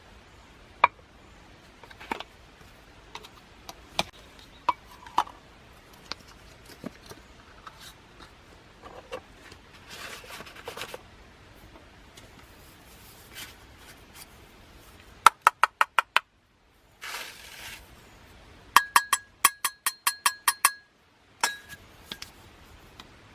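Metal and glass cookware and utensils clinking: scattered small knocks and clicks, then two runs of quick, ringing clinks, about six a second, in the second half.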